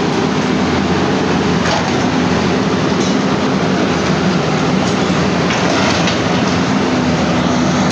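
Heavy demolition machinery running: a steady, loud low engine drone with a few faint knocks.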